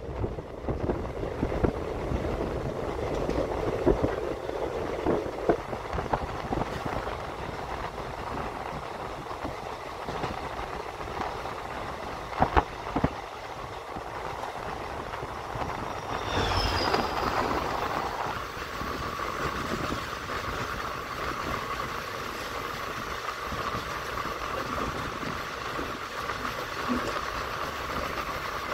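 Steady rumble and clatter of a moving passenger train's wheels on the rails, with sharp clicks at rail joints. About sixteen seconds in, a crossing train's EMD WDP4D diesel locomotive passes close on the next track with a surge of low rumble, followed by the steady rushing clatter of its coaches going by in the opposite direction.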